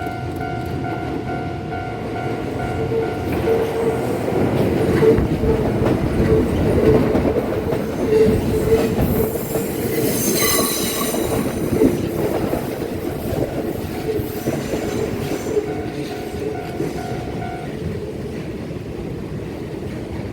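Kintetsu 30000 series 'Vista Car' electric limited-express train passing over a level crossing, its wheels clattering over the rail joints, with a brief high squeal about halfway through. A Japanese level-crossing warning bell rings steadily, standing out before the train arrives and again as it draws away, then stops near the end.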